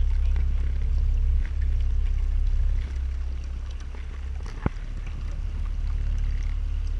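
Motorboat running on the water, a steady low rumble that drops off about three seconds in. A single sharp click comes about two-thirds of the way through.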